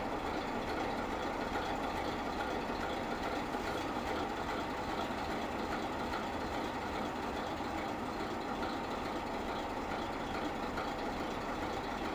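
Class 751 diesel locomotive running steadily, a constant engine noise with no change in speed.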